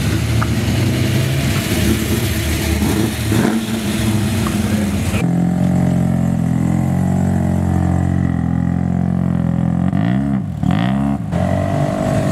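Classic cars' engines running as they roll slowly past one after another. About ten seconds in, one engine is revved twice, its pitch rising and falling each time.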